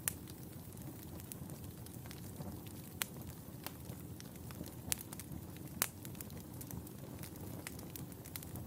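Wood fire burning in a fireplace: a steady low rumble of flame with scattered sharp crackles and pops, a few louder pops about three, five and six seconds in.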